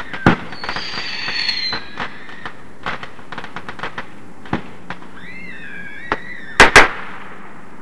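Fireworks: a sharp bang, then a whistle over crackling. Scattered pops follow, then a second whistle that falls slightly in pitch. It ends with two loud bangs in quick succession.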